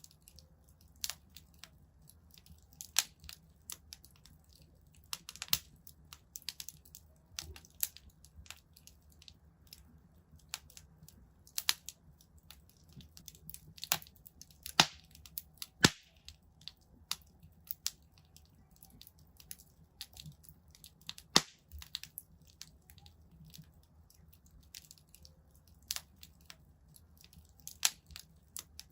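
Wood fire in a fireplace crackling: irregular sharp pops and snaps, a few every second, over a faint low hum.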